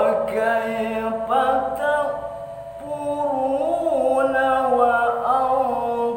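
A man's solo voice chanting Quranic recitation in the melodic tilawah style: long held, ornamented notes in one drawn-out phrase, the pitch stepping up about three seconds in.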